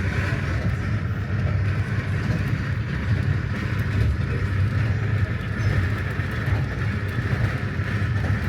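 Steady running rumble of the Standard Gauge Railway passenger train, heard from inside its coach.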